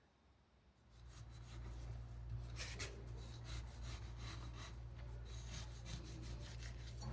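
Faint rubbing and scraping handling sounds with scattered small clicks over a steady low hum, starting about a second in.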